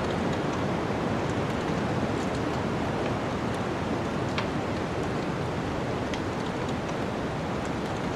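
Steady rushing noise of a snowstorm wind, with a wood fire crackling: a few sharp pops scattered through.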